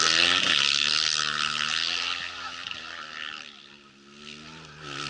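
Rally motorcycle engine passing at speed: its pitch slides down as it goes by and the sound fades away, then another engine grows louder near the end.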